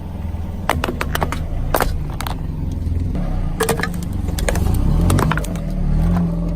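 A motor vehicle's engine running at low speed, with a series of sharp crunching cracks over it in irregular clusters.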